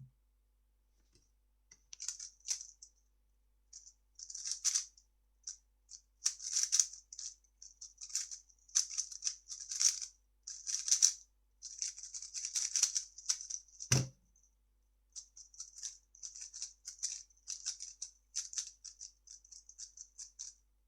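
3x3 speedcube being turned rapidly, its plastic layers clicking and rattling in quick bursts for about twelve seconds, then a single low thud about 14 s in as the cube is set down. After a short pause the turning clicks start again.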